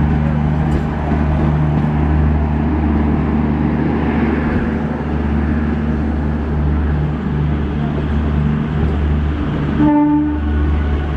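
A steady low engine drone, with a short horn note about ten seconds in.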